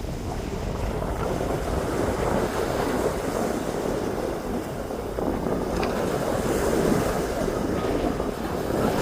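Wind rushing over the microphone with the wash of sea surf; a steady noise with no bird calls.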